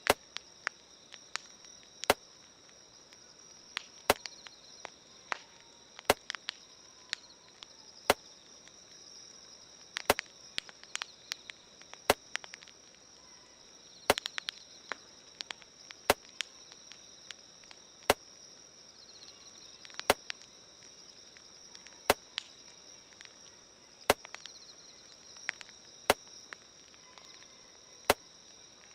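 Campfire crackling with irregular sharp pops, over a steady high chirring of crickets. A separate sharp click repeats evenly about every two seconds.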